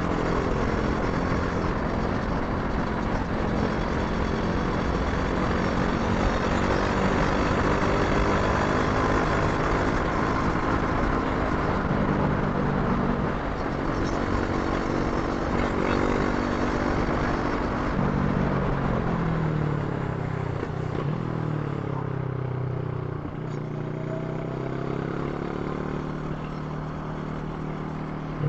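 Brixton Crossfire 500's parallel-twin engine running under way on the road, its pitch shifting with throttle and gear changes. In the second half the engine note falls and eases off, then climbs again near the end.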